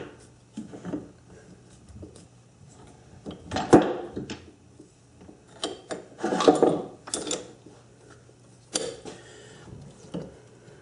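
Metal tools and workpiece on a lathe knocking and clanking in a series of separate hits as a tightly fitted part is broken loose from the spindle, over a faint steady hum.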